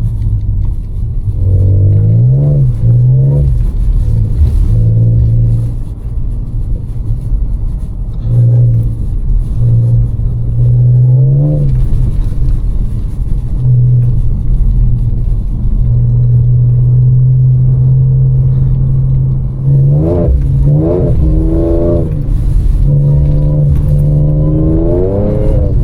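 Supercharged 3.0-litre V6 of an Audi B8.5 S5 with a Stage 1 tune and the resonator deleted, driving under changing throttle. It holds steady cruising revs for stretches and climbs in several short pulls, the pitch rising and then falling back at each shift.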